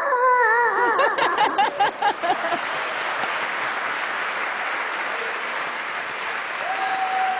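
A performer's vocal imitation of an older baby crying, wavering wails for about the first two seconds, followed by sustained audience applause.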